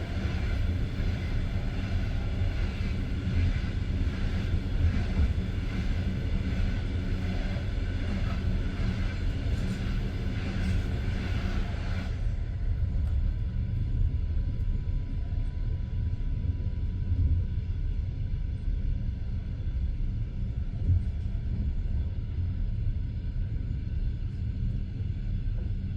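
Passenger train wheels running on the rails, heard from inside the carriage: a steady low rumble with a higher hiss that drops away about halfway through.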